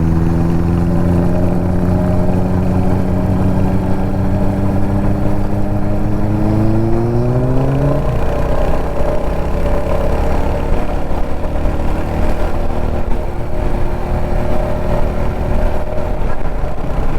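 Kawasaki Z900's inline-four engine pulling under load at highway speed, revs climbing steadily and then more quickly until about eight seconds in, after which they hold steady. Wind and road noise run underneath.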